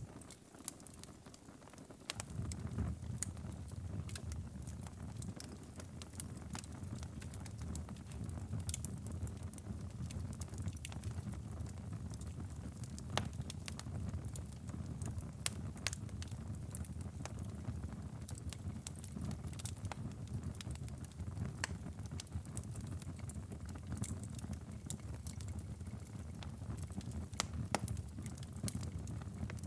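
Wood fire crackling and popping in a fireplace, with frequent sharp snaps over a steady low rumble. The rumble drops away briefly at the start and returns about two seconds in.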